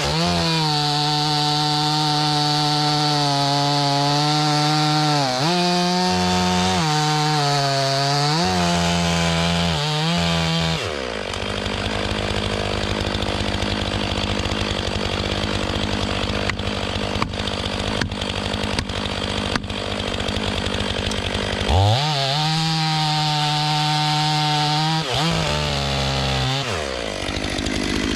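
Stihl MS 500i fuel-injected two-stroke chainsaw at full throttle, its revs dipping and recovering several times as it bucks a log. It drops to idle about eleven seconds in, revs up again for a second cut about twenty-two seconds in, and falls back to idle near the end.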